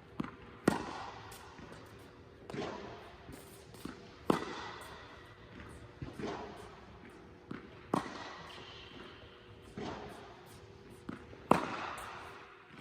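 Tennis balls fed by a ball machine and struck with a racket: a sharp hit about every three and a half seconds, with softer knocks of the ball between the hits. A faint steady hum runs underneath.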